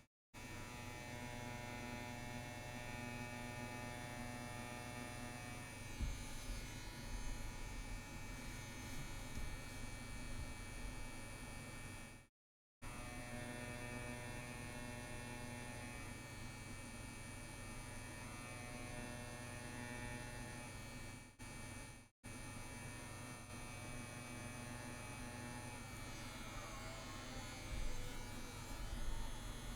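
CNC WE rotary tattoo pen running with a steady electric buzz while lining. The sound cuts out completely for a moment twice along the way.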